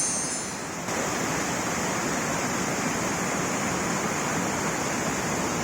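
Steady rushing of falling water, the continuous roar of a waterfall, which steps up slightly and evenly about a second in.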